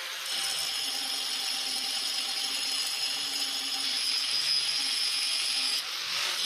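Power tool working steel, a steady noisy run with a high whine, shifting briefly near the end.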